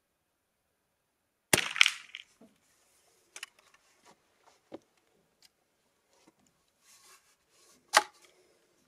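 Two .22 LR rifle shots about six and a half seconds apart, with a few small clicks and knocks of handling the rifle in between.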